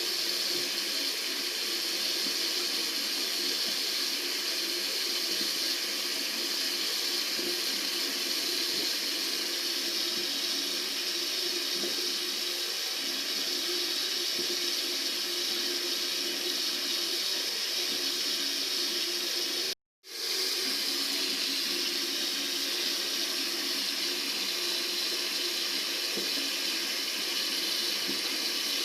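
Tap water running steadily from a faucet, an even, unbroken rush. About two-thirds of the way through it cuts out completely for a moment, then fades back in.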